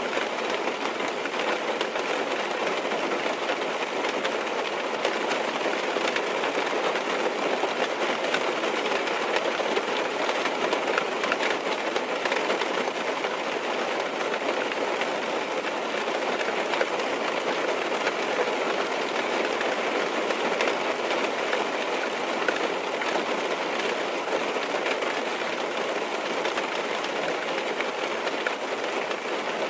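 Steady rain falling on a car's roof and windows, heard from inside the car: an even hiss with scattered small drop ticks.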